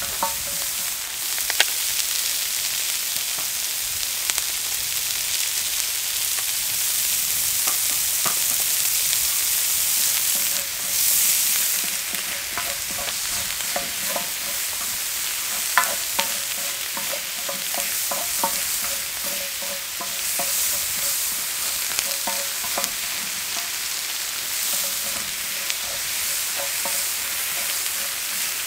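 Chopped green onions and chicken drumsticks sizzling in oil on a cauldron-lid griddle (sotdukkeong), stirred with two wooden spatulas. A steady frying hiss runs throughout, with scattered short scrapes and taps of the spatulas on the metal.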